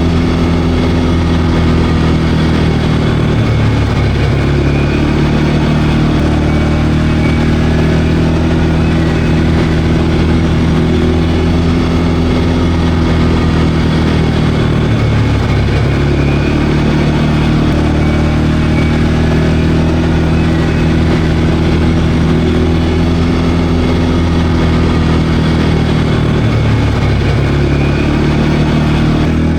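CFMOTO CForce 520L ATV's single-cylinder engine running steadily under way, its pitch dipping briefly a few times as the throttle eases and picks up again.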